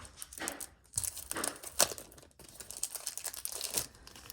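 Thin plastic crinkling and rustling in a run of short, irregular strokes as trading cards are handled and slid into plastic card sleeves, with one sharper crackle a little before the middle.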